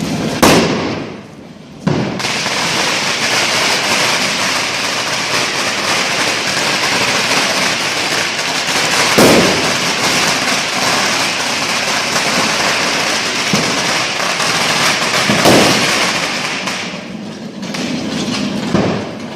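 Fireworks going off: sharp bangs about half a second in, near two seconds, around nine and fifteen seconds and near the end, over a dense, continuous hiss-like crackle that thins out about seventeen seconds in.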